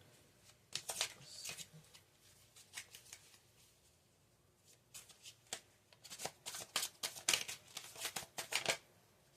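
Tarot cards being handled and shuffled: quick papery flicks and snaps in short clusters, densest in the second half.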